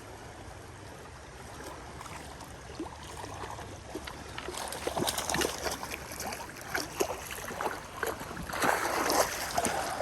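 Steady rush of creek water, then from about halfway irregular splashing that grows louder: a hooked rainbow trout thrashing at the surface as it is brought in to hand.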